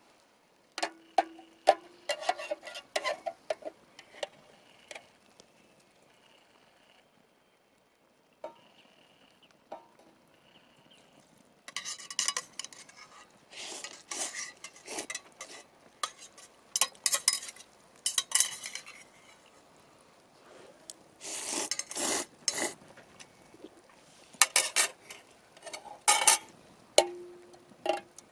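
A utensil stirring and clinking in a German army-style metal mess tin, in several bursts of scrapes and knocks separated by pauses, with the tin ringing briefly after some of the hits.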